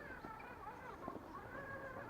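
1/10-scale RC rock crawler's electric motor and gear drivetrain whining faintly, the pitch wavering up and down with the throttle, with a few light clicks.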